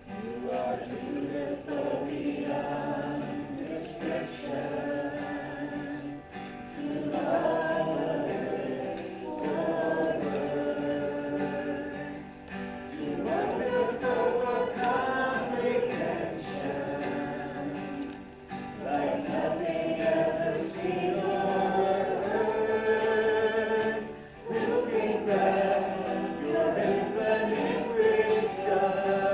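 A congregation singing a hymn together, in phrases of about six seconds with brief breaks between them.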